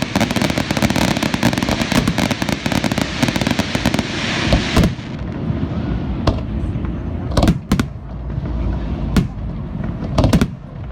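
Fireworks display: about four seconds of dense, rapid crackling, then half a dozen separate loud shell bursts spaced a second or so apart.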